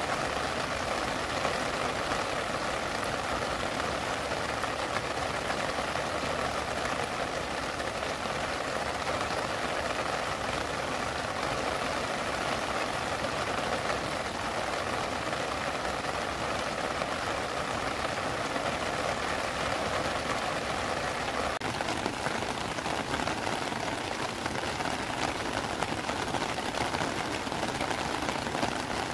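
Heavy rain falling steadily, an even dense hiss that holds at the same level throughout.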